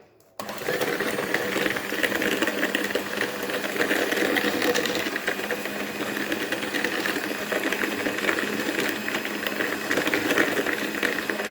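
Electric hand mixer running steadily, its beaters whirring and rattling through a batter of eggs, oil and sugar. It starts about half a second in and cuts off abruptly at the end.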